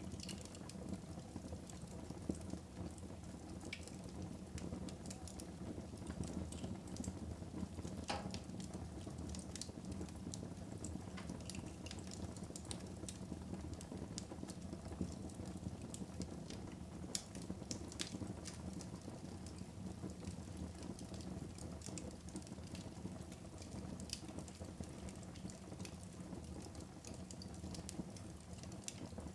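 Fire crackling in a fireplace: a steady low rumble of flames with frequent small crackles and a few sharper pops.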